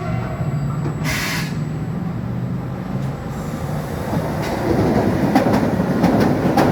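Train moving on the rails with a steady low rumble and a brief hiss about a second in. From about four and a half seconds in it grows louder, with a clatter of wheels clicking over rail joints.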